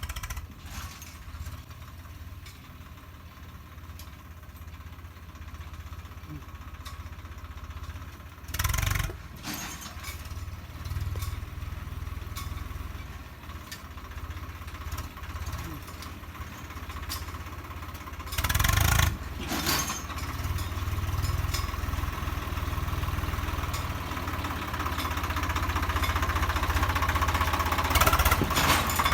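Swaraj 855 tractor's three-cylinder diesel engine running with a steady low knock, getting louder toward the end. Two short loud bursts of noise cut in, about nine and nineteen seconds in.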